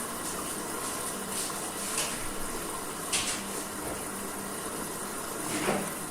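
Washing machine running its wash cycle: a steady churning wash of water with a faint hum, broken by three brief louder sloshes.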